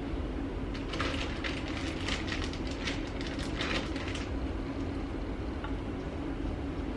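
Plastic bag crinkling and rustling for a few seconds as leftover turkey is emptied out of it, over a steady low hum.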